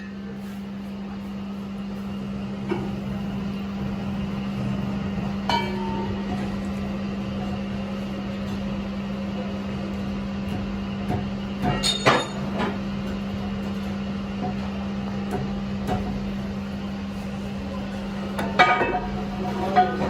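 A steady machine hum with a few sharp metallic clanks and knocks, the loudest a cluster about twelve seconds in and another near the end.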